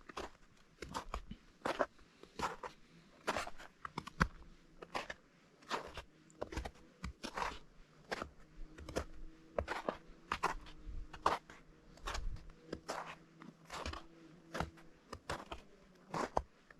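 Footsteps crunching on partly melted, granular snow at a steady walking pace, about two steps a second. A faint steady low hum sits underneath in the middle stretch.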